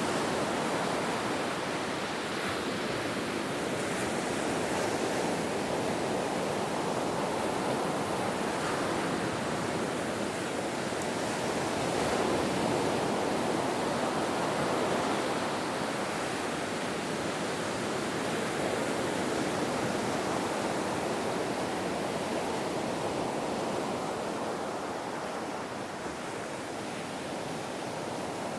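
Ocean surf: a continuous rush of waves that swells slightly about twelve seconds in and eases a little near the end.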